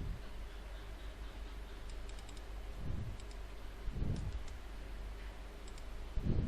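Faint clicks of a computer mouse and keyboard, scattered and irregular, with a few soft low thumps.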